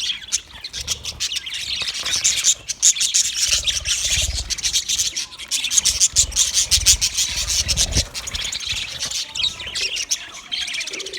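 Budgerigars chattering and warbling: a continuous scratchy stream of rapid chirps and clicks, with intermittent low rumbles underneath.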